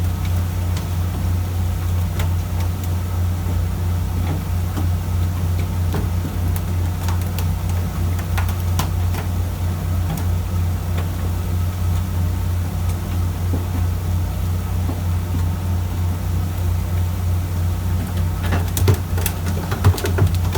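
Fishing boat's diesel engine running with a steady low drone, with a few sharp knocks near the end.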